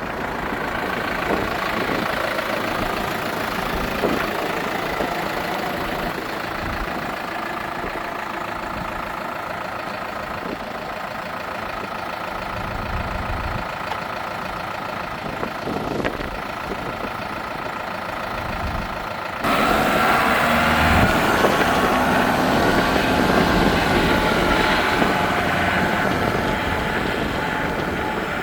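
Case 95 MFWD tractor's diesel engine running steadily at idle. About two-thirds of the way in it abruptly becomes louder and brighter.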